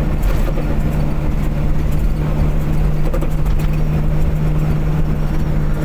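Car engine and road noise at a steady cruising speed, a continuous low drone with a constant hum.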